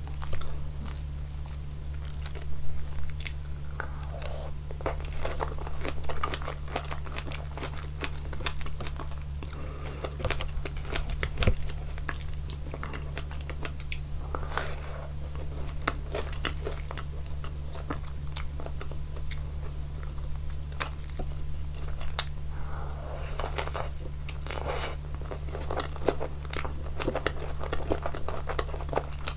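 Close-miked eating of a waffle dessert with strawberries and whipped cream: repeated crunchy bites and moist chewing, with many small sharp clicks.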